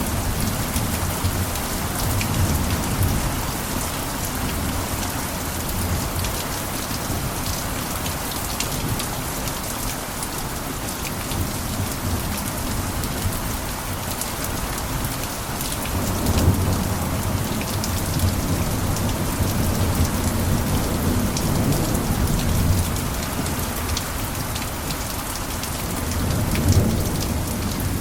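Steady heavy rain pattering on a roof, with low rumbles swelling up a little past halfway and again near the end.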